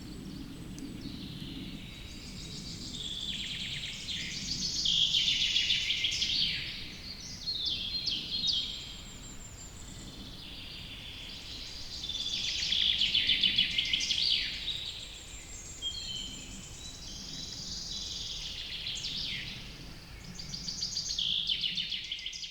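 Several songbirds singing in a forest chorus, with overlapping phrases and rapid trills, over a low steady background rumble.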